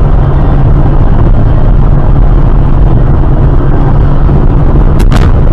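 Loud, steady vehicle rumble of a car on the move, with a couple of sharp clicks about five seconds in.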